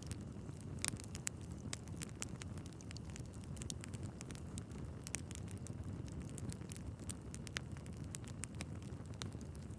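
Wood fire burning in a fireplace: a steady low rumble of flames with irregular sharp crackles and pops from the logs, the loudest pops about a second in and about five seconds in.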